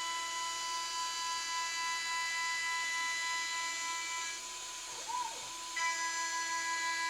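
CNC milling machine spindle running at high speed with a steady high-pitched whine. Its upper overtones drop away for a moment about four and a half seconds in, then come back.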